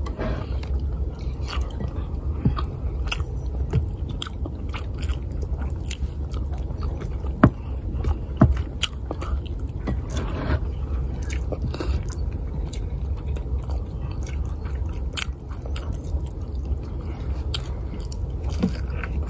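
Close-up chewing and mouth sounds of someone eating garlic fried rice and ham by hand: many small wet clicks and smacks, with two sharper clicks about seven and eight seconds in, over a low steady hum.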